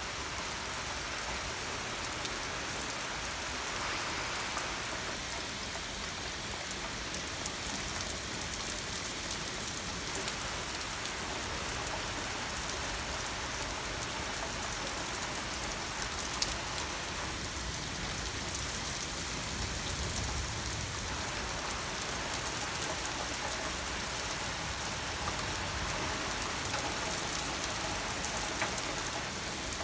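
Steady rain falling and pattering on surfaces during a thunderstorm, an even hiss with occasional sharper drop ticks.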